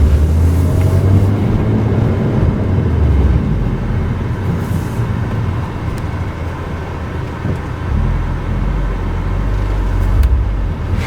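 Car running on the road, heard from inside the cabin: a steady low rumble of engine and tyre noise.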